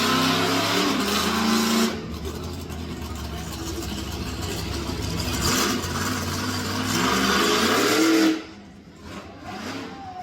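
Monster truck engine revving hard: loud for the first two seconds, easing off, then climbing again to a peak before dropping away sharply about eight seconds in.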